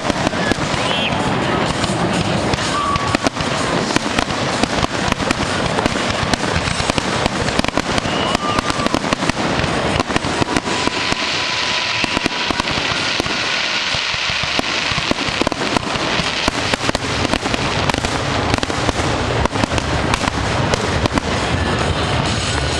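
Fireworks display going off in a steady barrage of bangs and crackles, the reports coming thick and fast with no pause.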